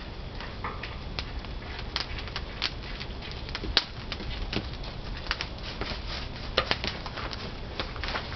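Pine firewood burning in a traditional wood-fired kiln: irregular sharp crackles and pops over a steady low rumble of the fire.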